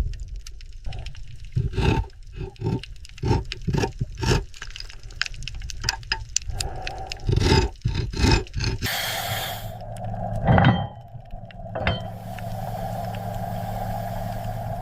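A run of irregular knocks and thuds, then, about nine seconds in, a steady low mechanical hum with a couple of sharp knocks over it.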